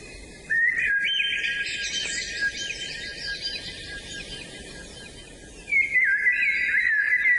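A songbird singing two long, fast warbling phrases of rapidly gliding high notes. One begins about half a second in and trails off, and the other begins near the end.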